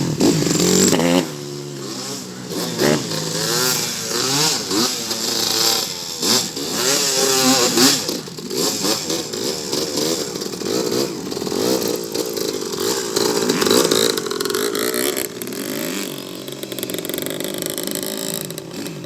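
Motocross dirt bike engines revving hard, their pitch climbing and dropping again and again as the bikes accelerate and shift, with more than one engine heard at times.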